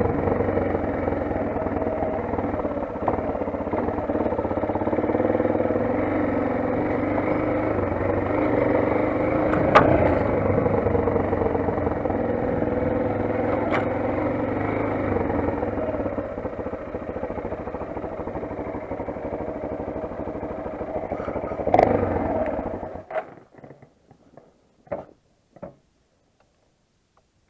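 Motoland XR 250 enduro motorcycle's single-cylinder engine running steadily, with a couple of sharp knocks. It stops abruptly near the end, leaving a few scattered clicks.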